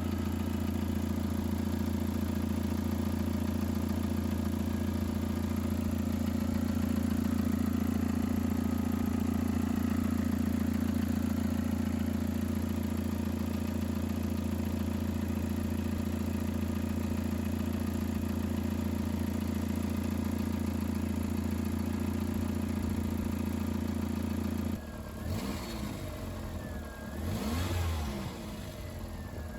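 Audi TT 1.8-litre turbocharged four-cylinder engine running at a steady speed. About 25 seconds in, the steady note drops away and the engine is blipped, its pitch rising and falling.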